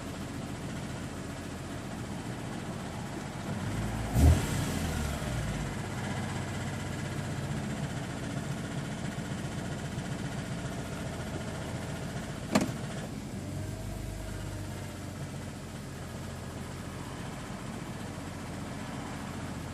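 BMW E46 M3's S54 straight-six engine running steadily, with a brief swell and a low thump about four seconds in and a sharp click about twelve seconds in. The owner is checking it for an unknown abnormal noise that appears once the oil is above 80 °C.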